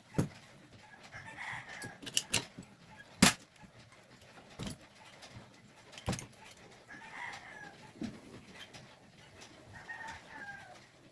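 Chickens clucking in the background, with about six sharp clicks and knocks, the loudest about three seconds in.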